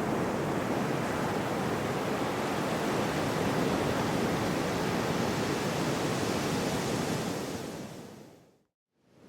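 Gentle sea waves washing on the shore, a steady even surf noise. Near the end it fades out to a moment of silence and swells back in.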